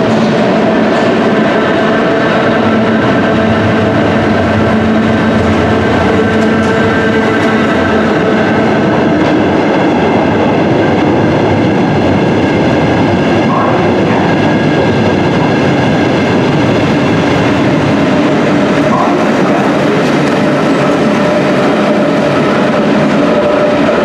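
A London Underground battery-locomotive engineering train running through a tube station on the Central line, its wagons rumbling steadily over the rails. A steady whine runs through the rumble.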